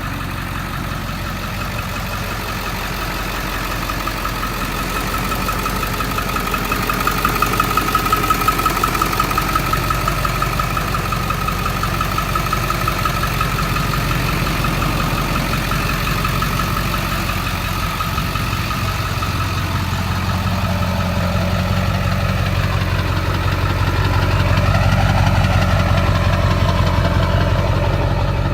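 A 2002 Ford F-350's 7.3L Power Stroke turbodiesel V8, with free-flow intake and exhaust, idling steadily with a steady high whine over the engine note. Its low note grows fuller and a little louder about twenty seconds in.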